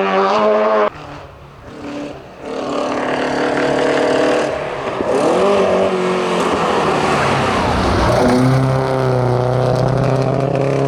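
Seat 131 race car engine at full throttle on a hillclimb, revving hard and pulling through the gears, with the pitch dropping at gear changes about halfway through and again near eight seconds in. A different car's revving engine cuts off abruptly in the first second.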